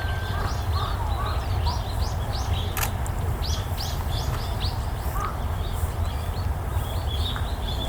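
Small wild birds calling with quick, high chirps, many of them in a run from about two to five seconds in, over a steady low rumble.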